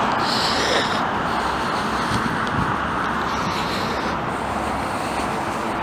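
Steady road traffic noise, an even rush of passing cars.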